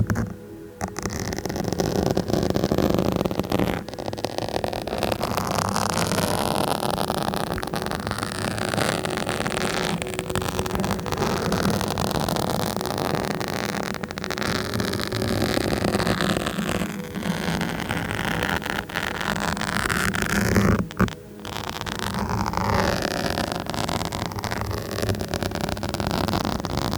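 Continuous rough scratching directly on a microphone, dense and loud, with two brief pauses: about half a second in and about 21 seconds in.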